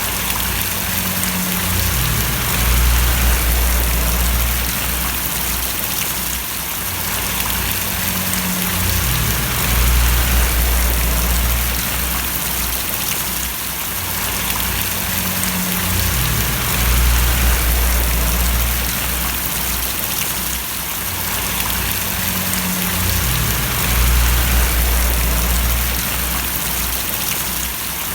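Rain falling and splashing as a steady hiss, with a low rumble that swells and fades about every seven seconds.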